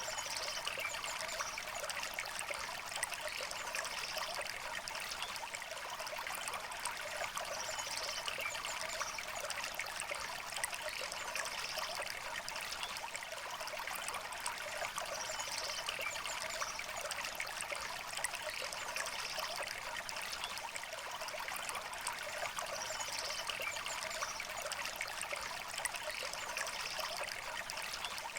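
River water flowing and trickling steadily, a light, hissy babble with little low rumble. Faint short bird chirps come every few seconds above it.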